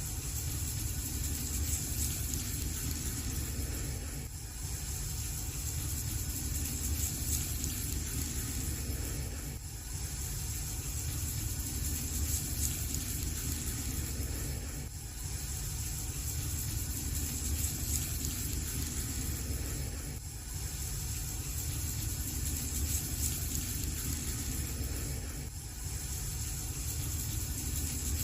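Wood fire burning in a fireplace: a steady low rumble of flames with faint crackles, dipping briefly about every five seconds.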